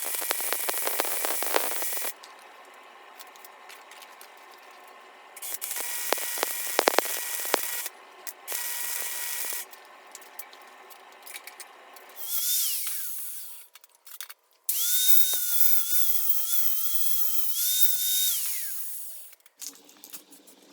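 Three short bursts of harsh, crackling noise in the first half, then a handheld power tool motor running twice with a high whine, winding down with a falling pitch each time it is switched off.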